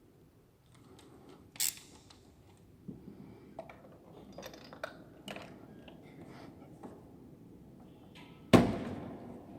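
Hand tools being handled during spark plug work, with scattered light clicks and taps and one sharp loud knock near the end.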